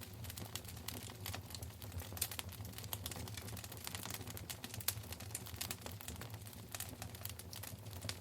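Wood fire in a fireplace crackling: irregular sharp pops and snaps, several a second, over a low steady rumble of the flames.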